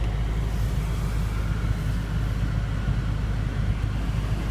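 BMW M5 F10's twin-turbo V8 idling, a steady low rumble heard from inside the cabin.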